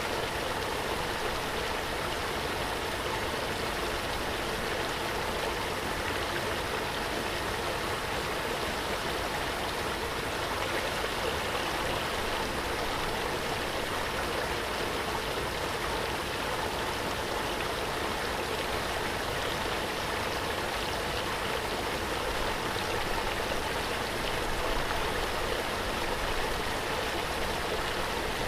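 Waterfall: water falling and splashing with a steady, unbroken rush.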